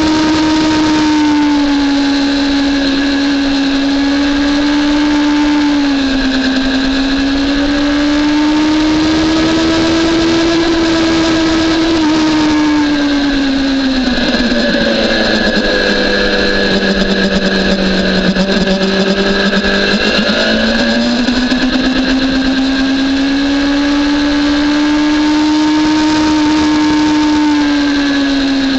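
BMW S1000RR inline-four engine running hard on track, its note holding fairly steady with slow rises and falls. About halfway through, the pitch sags for several seconds, then climbs back up.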